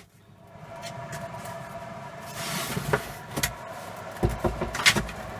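Vintage salon hood hair dryer's fan motor starting up and running with a steady hum, the heater back on once the hood is lowered. A few knocks and clatters of the metal hood being handled sound over it, the loudest near the end.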